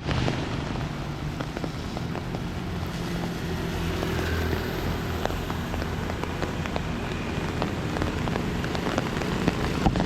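Steady rain falling, with many small drop ticks, over a low rumble of street traffic.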